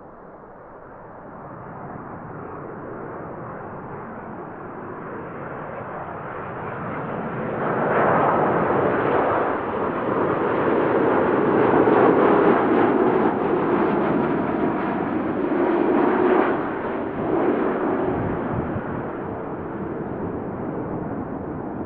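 Jet aircraft passing close by. The engine roar builds steadily, is loudest for several seconds in the middle with a deep rumble, then fades.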